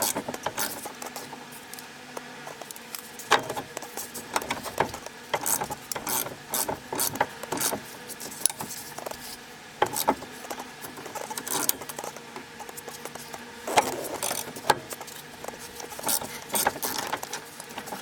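Hand ratchet turning the screw of a ball joint press, clicking irregularly with occasional sharper knocks, as a new ball joint is pressed into the front control arm of a 2005 Mustang.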